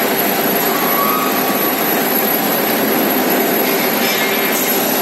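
Steady, loud industrial roar from the rod-heating area of a railway spring shop, like furnace burners and blowers running. A faint, brief whine rises over it about a second in.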